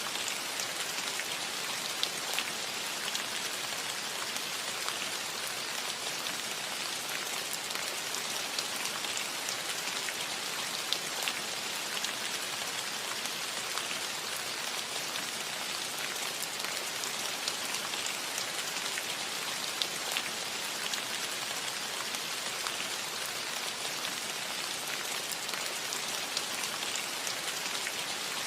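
Steady rain falling on a roof: an even hiss with scattered individual drops ticking through it.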